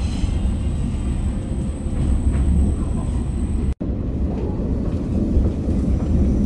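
Cabin noise of the Futatsuboshi 4047, a KiHa 40-series diesel railcar train under way: a steady low drone of engine and wheels on rail. The sound cuts out for an instant about four seconds in.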